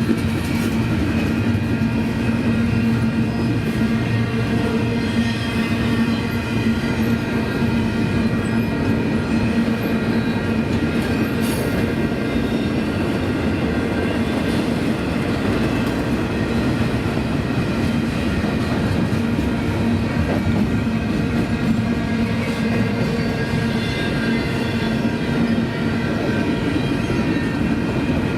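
Union Pacific double-stack intermodal train rolling past: a steady rumble of steel wheels on rail, with clickety-clack over the joints and a steady ringing wheel tone over it.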